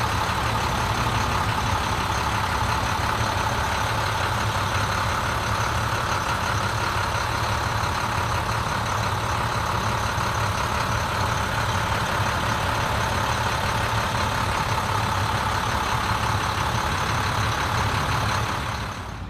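A 2005 International CXT's DT 466 diesel engine idling steadily. It cuts off near the end.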